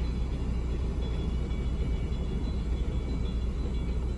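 Low, steady rumble of a passenger train rolling past a level crossing, heard from inside a car's cabin.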